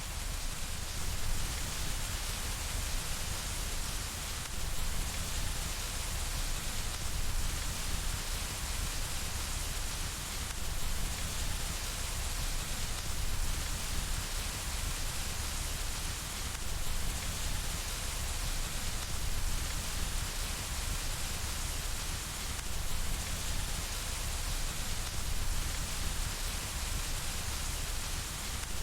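Steady rain falling on window glass, an even continuous hiss with a low rumble beneath.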